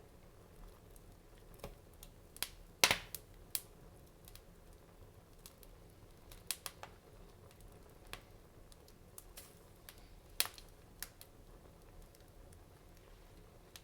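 Fire crackling in a fireplace: irregular sharp pops and snaps over a faint steady hiss, the loudest pop about three seconds in and another strong one about ten seconds in.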